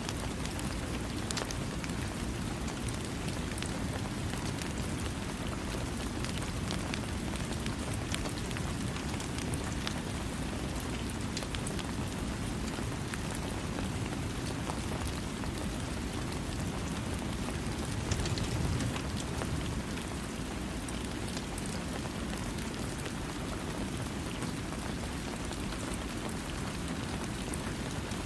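Steady rain falling, a dense low rush with many separate drops ticking through it. It swells briefly about two-thirds of the way in.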